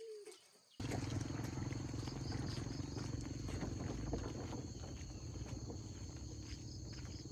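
A couple of short rising-and-falling calls, then about a second in a sudden steady low rumble begins. Over the rumble runs a constant high insect drone.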